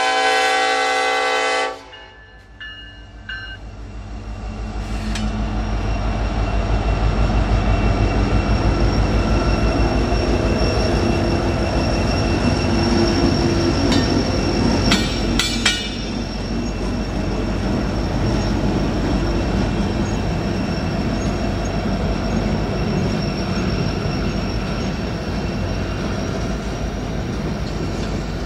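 A diesel locomotive's air horn finishes its blast about two seconds in. Then the train's diesel-electric locomotives rumble past, the sound building to a steady low rumble. Steel wheels roll over the rails, with a few sharp clicks midway.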